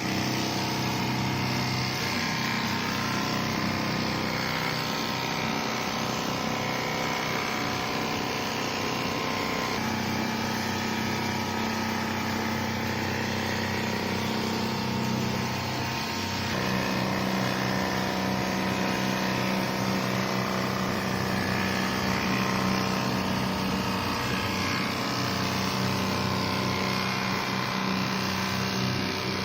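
Richpeace non-stop quilting sewing machine running steadily, a constant mechanical hum with a clatter over it. Its pitch shifts twice, about ten seconds in and again about sixteen and a half seconds in.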